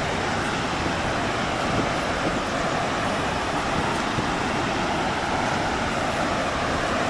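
Steady roar of a large waterfall, an even rushing with no breaks.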